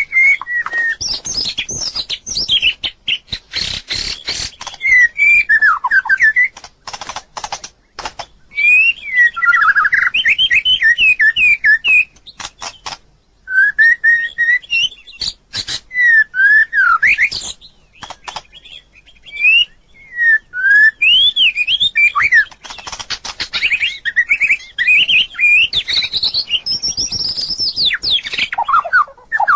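White-rumped shama singing: loud, varied whistled phrases of rising and falling notes, mixed with runs of sharp clicking notes, with short pauses between phrases.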